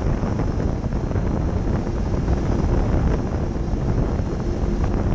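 Wind buffeting the microphone in a steady, dense rush weighted low, with a faint steady hum under it.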